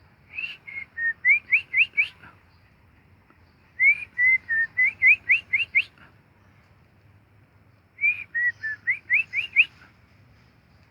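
Three whistled song phrases about four seconds apart. Each opens with a few short notes and ends in a quick run of five or six rising upslurred whistles.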